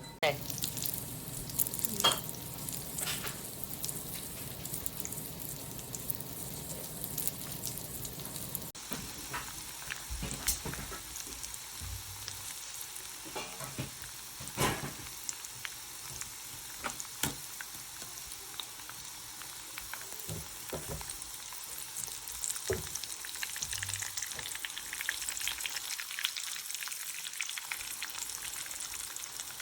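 Breaded chicken of the woods mushroom pieces frying in hot oil, sizzling steadily with scattered sharp crackles and pops.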